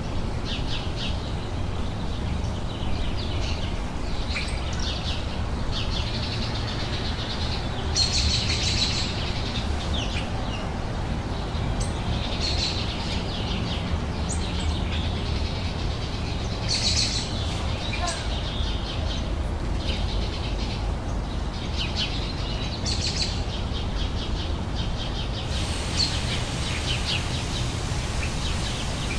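Several songbirds chirping and singing in short, overlapping phrases, over a steady low background rumble.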